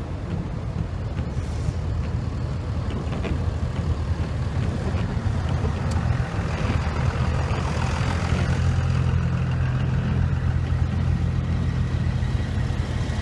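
Four-wheel-drive vehicle's engine running, heard from inside the cabin: a steady low hum that gets somewhat louder about halfway through, with a wash of road hiss.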